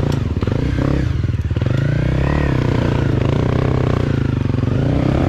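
Off-road vehicle engine running hard under load, its revs rising and falling through a steep, rough climb.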